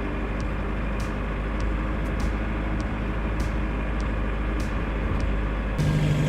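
MK1 VW Rabbit diesel engine running steadily with the freshly charged air conditioning on. Near the end the sound jumps louder with a strong steady hum.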